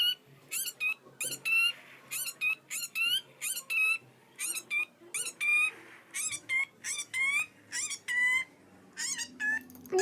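Parrot calls: a rapid series of short, high-pitched squawks that rise in pitch, about two a second, with brief pauses.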